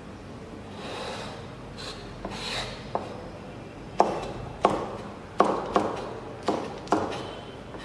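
Kitchen knife working on a wooden cutting board: scraping for the first few seconds, then about seven separate chops at an uneven pace.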